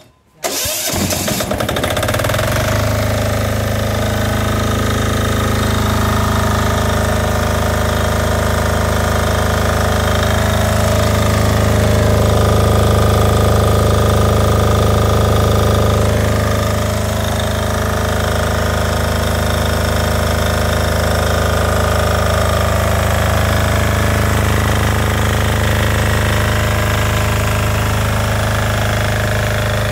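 Portable diesel generator engine catching about half a second in after electric-start cranking, then running steadily at a constant speed.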